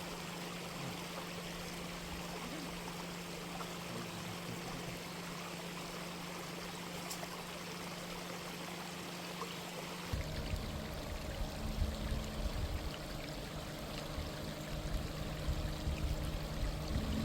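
Water of a mountain stream rushing steadily. About ten seconds in, a low rumble with a steady hum joins it.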